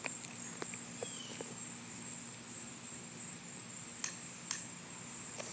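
Faint crickets trilling steadily in one high, unbroken tone, with a couple of soft ticks about four seconds in.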